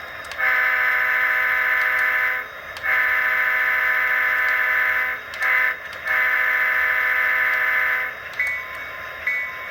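Soundtraxx Tsunami sound decoder in an HO-scale Walthers Proto SD45 model locomotive playing a multi-chime diesel horn through its small speaker, in the grade-crossing pattern: long, long, short, long. Near the end the locomotive bell starts ringing, a little over one ding a second.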